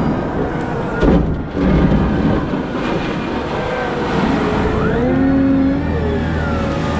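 Cat 972M XE wheel loader working: engine running with whines that rise and fall in pitch. A loud rumbling thud about a second in.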